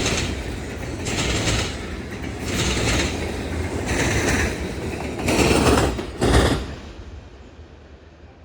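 Freight train cars rolling past, their wheels clattering over the rail joints in pulses about once a second. A last loud clatter comes a little over six seconds in, and then the sound falls away to a faint hiss.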